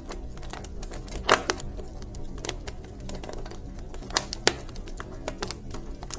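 Wood fire crackling in a fireplace: irregular snaps and pops over a steady low rumble, with the sharpest pops about a second in and near the middle.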